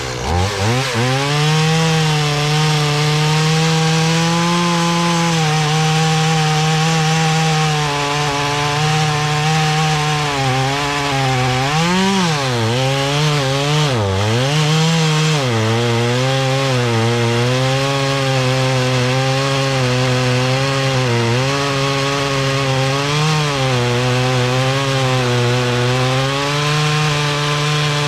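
Stihl MS170 small two-stroke chainsaw revved up to full throttle and cutting wood with a semi-chisel chain. The engine note holds high but sags and recovers again and again under the load of the cut, dipping deepest twice around the middle.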